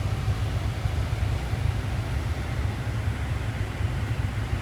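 Steady low rumble with an even hiss over it, with no clear events.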